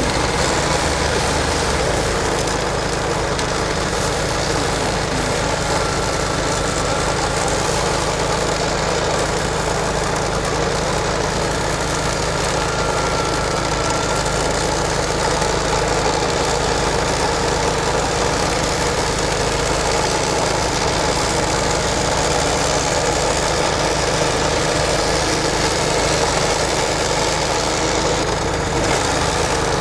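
Off-road vehicle's engine running steadily at low, even revs.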